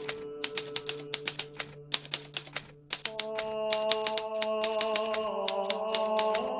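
Hermes Baby portable typewriter typing in quick runs of sharp keystrokes, with a short pause a little before halfway, over soft sustained background music whose chord changes about halfway through.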